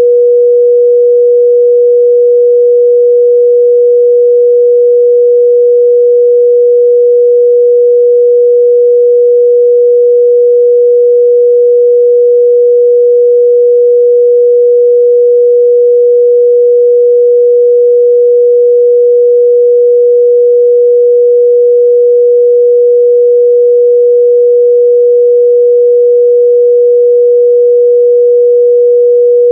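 Steady 484 Hz sine-wave test tone: one pure, unchanging midrange pitch held at constant loudness.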